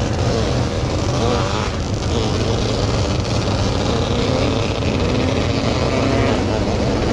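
Sprint cars racing on a dirt oval, several engines running at once with their pitch rising and falling.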